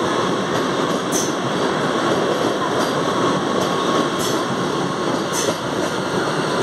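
Vande Bharat Express electric train set rolling past a station platform: a steady rumble of wheels on rail, with a few sharp high ticks at irregular intervals.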